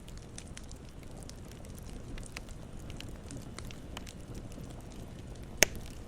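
Campfire burning with a low steady rumble and scattered crackles, and one loud pop near the end.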